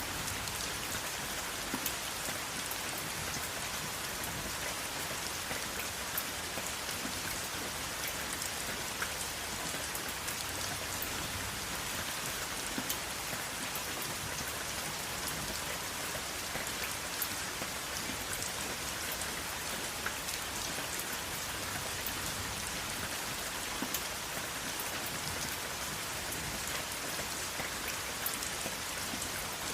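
Steady rain falling, a constant hiss of rainfall with scattered individual drops pattering distinctly over it; no thunder.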